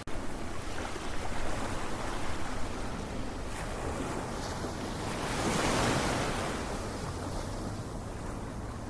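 Ocean waves washing on a shore in a continuous rush, with one wave swelling to a louder crash about six seconds in and then fading back.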